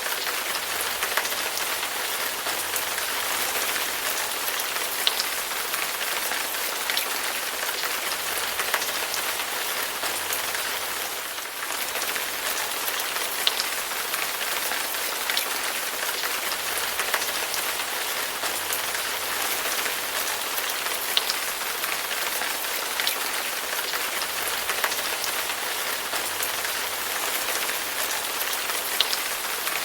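Steady rain falling on a hard surface, an even hiss with scattered louder individual drop taps. The rain eases briefly about a third of the way through.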